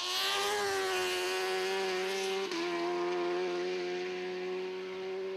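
Kawasaki Ninja ZX-RR MotoGP bike's four-cylinder racing engine running at high, steady revs, with a small drop in pitch about two and a half seconds in.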